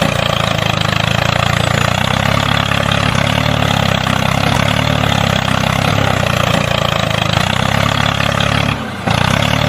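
Small tractor engine running steadily at idle, dipping briefly near the end before carrying on.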